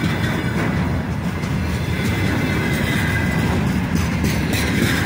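Container flat wagons of a loaded freight train rolling past close by: a steady, loud rumble of steel wheels on the rails.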